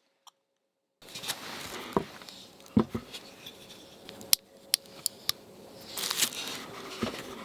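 After about a second of silence, a series of sharp clicks and taps of small objects being handled, with a brief rustle near the end, over a low steady hiss.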